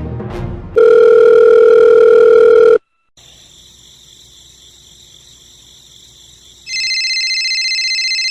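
Telephone line tones: a loud steady dial tone for about two seconds, then a brief gap. A fainter steady tone follows, and about a second and a half before the end a louder steady tone comes in and cuts off suddenly.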